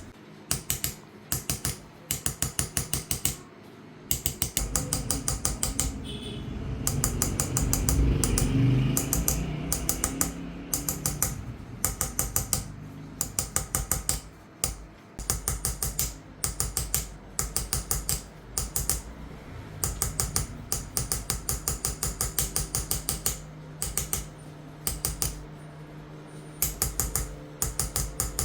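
Rapid, light metallic tapping of a small hammer driving an engraving chisel into silver (qalamzani), in bursts of several quick strokes broken by short pauses. A low rumbling swell rises under the tapping about five seconds in and fades by about eleven seconds.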